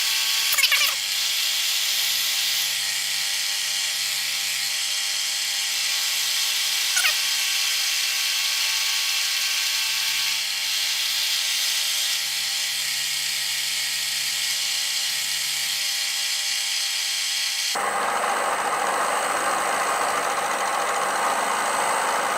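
Bridgeport milling machine running with its milling cutter taking a side cut along the edge of a steel block: a steady machining whirr with brief squeals near the start and about seven seconds in. About eighteen seconds in the sound changes suddenly to a rougher, fuller noise with a steady high whine.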